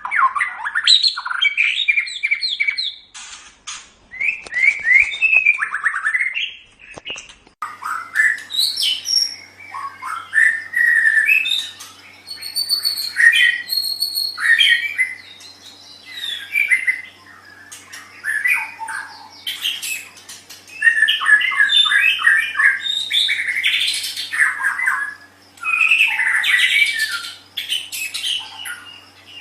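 White-rumped shama (murai batu) singing in bursts of varied whistled and chattering phrases with short pauses between them. About 7.5 s in the recording changes and a faint steady hum lies under the song.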